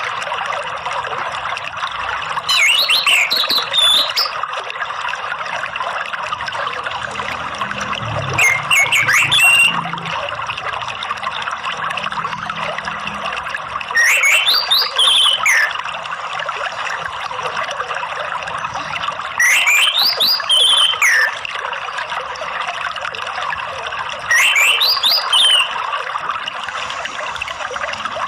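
Orange-headed thrush (anis merah) singing short, clear whistled phrases, five of them at intervals of about five to six seconds, over a steady sound of running water. This is a therapy recording meant to bring a captive anis merah into loud, open 'ngeplong' song.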